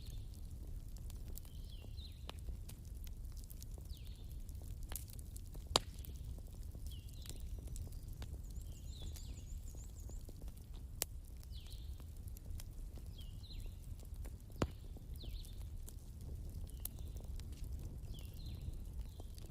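Wood fire crackling, with scattered sharp pops (the loudest about 6, 11 and 15 seconds in), over a low steady rumble. A short high call repeats about once a second throughout.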